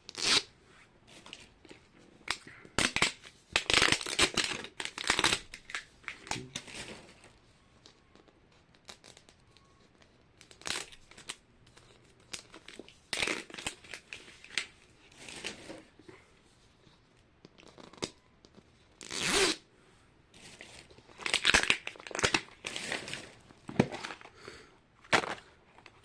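Plastic packaging of Mini Brands capsules being torn open and crinkled, in irregular bursts of rustling with short pauses between them.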